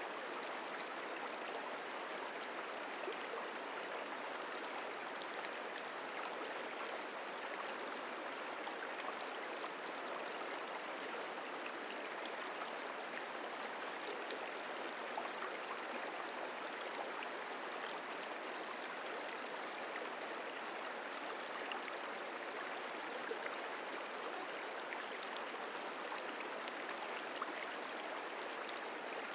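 Merced River flowing: a steady, even rush of running water.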